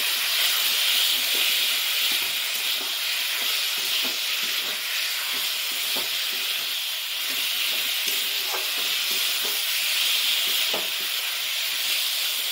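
Potato wedges and onion-spice masala sizzling steadily in a hot wok while being sautéed dry (kosha) before any liquid is added. Now and then a metal spatula scrapes and turns the food against the pan.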